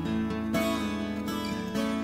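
Live music with acoustic guitar strumming over sustained chords, an instrumental passage with no singing.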